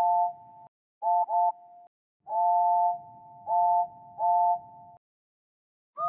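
Two-note steam locomotive whistle sounded in a series of toots: a long blast, two quick short ones, then another long blast with two more toots on top of a quieter held note. A different, higher-pitched whistle just starts at the very end.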